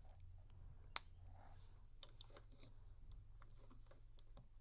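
Plastic LEGO bricks being handled and pressed together: light scattered clicks, with one sharp snap about a second in.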